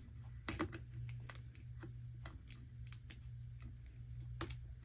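Scotch tape being pulled off the roll and pressed down, an irregular run of small crackles and clicks, the sharpest about half a second in and near the end, over a steady low hum.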